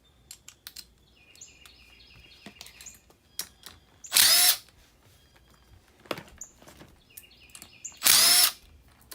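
Cordless drill/driver run in two short bursts about four seconds apart, driving screws as a furnace blower part is fastened back on, with light clicks of parts and tool handling in between.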